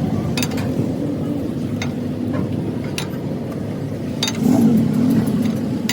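A motor running steadily, with scattered sharp metallic clicks and taps. About four seconds in it gets briefly louder with a wavering hum.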